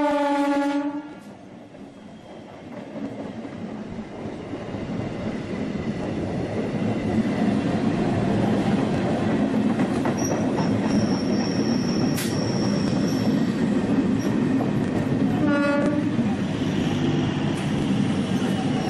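Electric commuter train (EMU) horn blast, followed by the rumble and clatter of the train's wheels on the rails, building over several seconds and then staying loud. A thin high-pitched tone sounds for a few seconds in the middle, and a second, shorter horn blast comes about three-quarters through.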